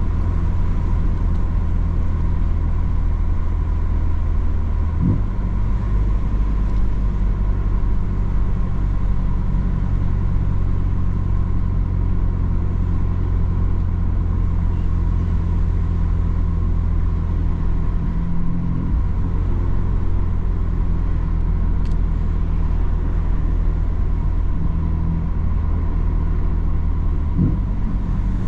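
BMW M3 F80's twin-turbo straight-six through its M Performance exhaust, running steadily while driving, with a few brief changes in engine pitch.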